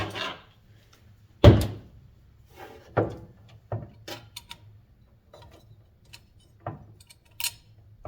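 Scattered knocks and clicks of metal motor parts and screws being handled, the loudest a single thump about a second and a half in.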